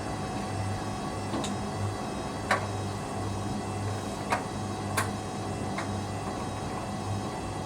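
Hoover Dynamic Next washing machine's motor humming steadily as the drum turns going into its first intermediate spin, the hum pulsing slightly. Five sharp clicks sound through it, the loudest about two and a half seconds in.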